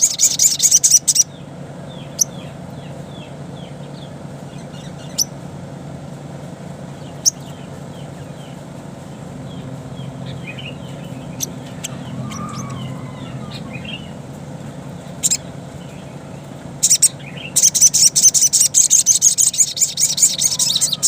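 Sogon (sogok ontong) birdsong played as a lure call. A fast run of loud, high-pitched chattering calls opens it, then come softer scattered chirps and a few sharp single notes, and from about two-thirds of the way through there is another long loud chattering run. A low steady hum sits underneath.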